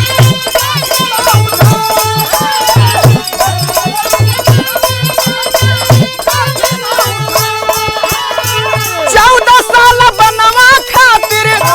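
Instrumental passage of a Bhojpuri birha folk song: a steady rhythm of low drum beats with jingling, rattling percussion and a melody line. A louder, wavering melody comes in about nine seconds in.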